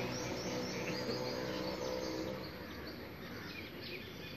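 Small birds chirping repeatedly in short calls over steady outdoor background noise, with a low hum that fades out about halfway through.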